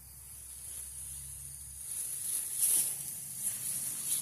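Tomato plants rustling as they are handled during picking, loudest about two and a half seconds in, over a steady high-pitched hiss.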